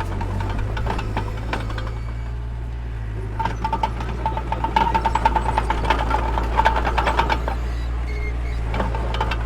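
Diesel engine of a mini crawler bulldozer running steadily under a low drone. From about three seconds in, a few seconds of rapid metallic clanking and squeaking, typical of steel crawler tracks moving.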